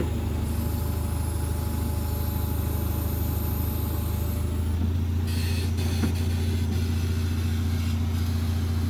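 A steady, low engine hum runs throughout, with a brief hiss about five seconds in.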